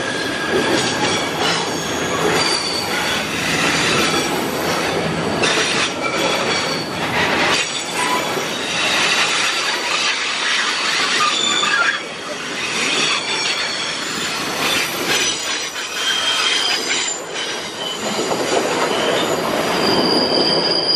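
Freight wagons rolling past: a steady rumble of steel wheels on rail, with high-pitched wheel squeals that come and go.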